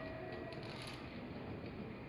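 Kintetsu electric train slowing to a halt. A faint whine dies away in the first half second, leaving a low steady hum with a few light clicks.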